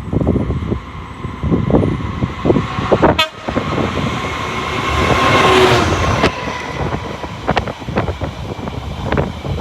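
Freight train passing, its wheels knocking irregularly over the rail joints. About three seconds in there is a sharp crack, then a loud rushing swell with a faint steady tone in it that lasts about two seconds and cuts off.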